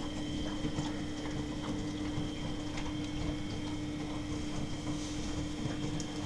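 Miele Novotronic W923 washing machine running a cottons wash: a steady motor hum and rumble with light, irregular clicks and knocks from the turning drum.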